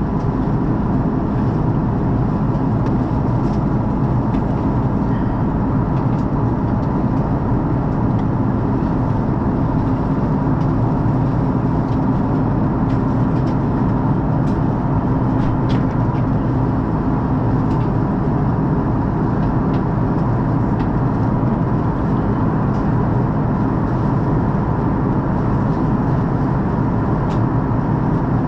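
Steady drone of an Airbus A330-343 in flight, heard from inside the cabin: Rolls-Royce Trent 700 engines and airflow with a constant hum and a few faint ticks.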